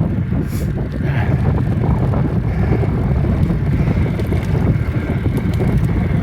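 Wind buffeting the microphone of a phone carried on a moving bicycle: a loud, steady low rumble.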